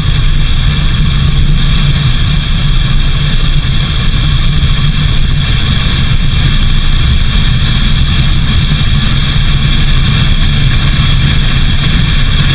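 Vehicle running steadily, a constant loud engine and road noise.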